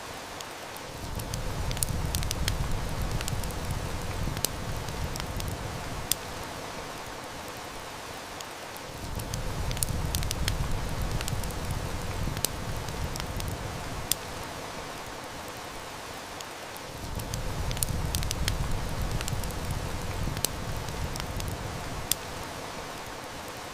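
Heavy rain hissing steadily while a wood fire snaps and crackles in sharp, scattered pops. Under it a low rumble swells up and dies away three times, about every eight seconds.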